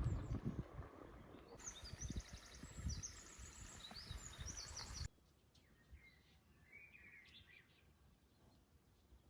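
Songbirds chirping in quick high runs over a low wind rumble; the level drops suddenly about five seconds in, leaving fainter, lower bird calls.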